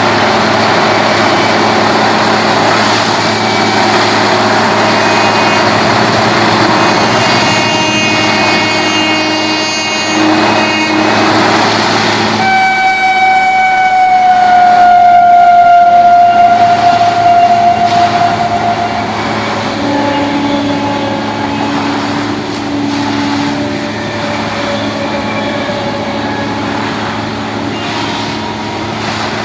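Train running on the line with a steady rumble, and a long horn blast starting about 12 seconds in that falls slightly in pitch as it fades.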